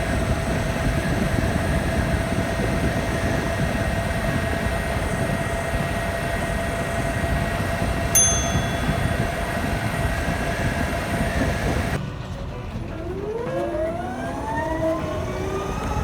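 Ather 450X electric scooter ridden at speed: heavy wind rush on the microphone with a steady whine from the electric motor. A short ding sounds about eight seconds in. About twelve seconds in the wind drops and the motor whine rises in pitch as the scooter accelerates.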